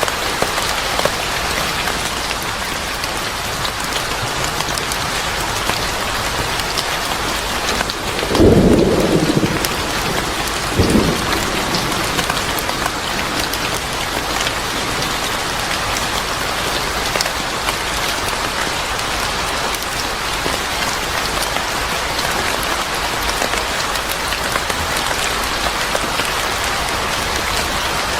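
Steady rain falling. A clap of thunder about eight seconds in is the loudest moment, and a shorter rumble follows a couple of seconds later.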